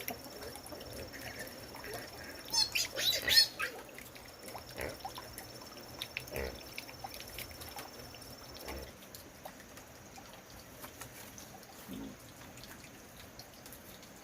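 A chicken squawking briefly about two and a half seconds in, over faint scattered clicks and knocks.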